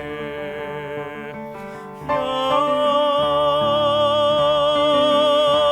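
Baritone singing a Korean art song with piano accompaniment. A phrase tails off in the first second or so. About two seconds in he starts one long, loud held note on "ya" with wide vibrato over the piano.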